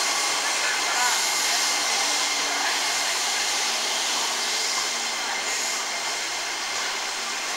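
Steady blower-like hiss from an electric commuter train standing at the platform with its on-board equipment running, easing off slightly about five seconds in.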